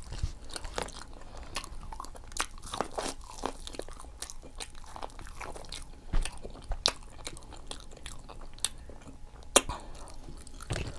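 Close-up eating sounds of seafood boil food being bitten and chewed, with irregular crunches and wet mouth clicks.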